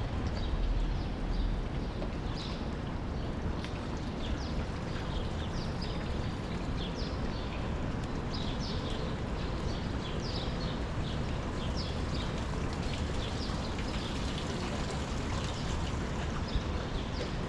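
Steady city street ambience with a low rumble and hiss, over which small birds chirp again and again in short, high, falling notes.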